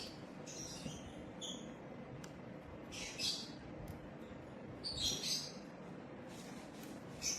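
Pet parrot giving a handful of short, high-pitched chirps and squeaks, spaced a second or two apart.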